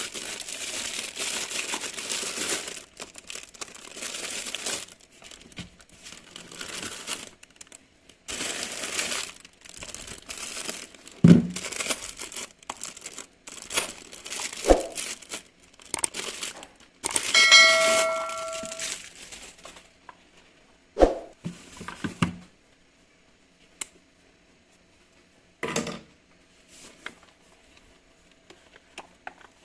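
Plastic packaging crinkling and tearing as an RC car box is unpacked, with several sharp knocks of parts being handled. About halfway through comes a short steady electronic beep.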